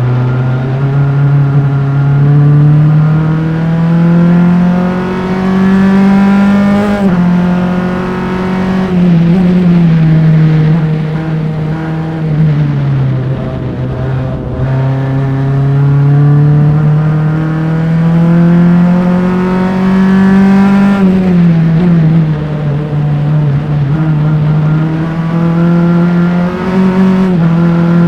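Formula Enterprise single-seater's engine at race pace, heard from engine-mounted mics. The note climbs slowly under full throttle, drops sharply at upshifts about 7 and 21 seconds in, and falls away for a corner between about 9 and 13 seconds before pulling up again.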